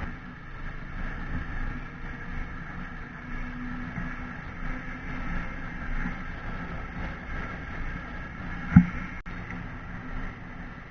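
A TVS Apache RTR 160 motorcycle riding at a steady speed: its single-cylinder engine hums steadily under low road rumble. One sharp thump about nine seconds in.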